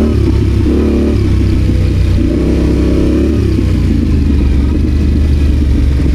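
Adventure motorcycle engine pulling under load off-road, its revs rising and falling several times with the throttle.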